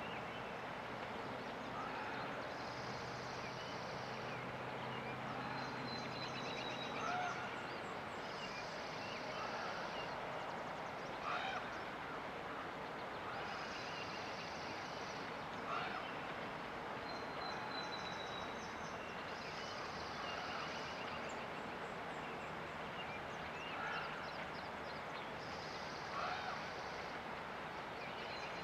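Steady rush of river water with songbirds singing over it: a high trilled phrase about every five seconds, an occasional thin falling whistle, and shorter, lower chirps.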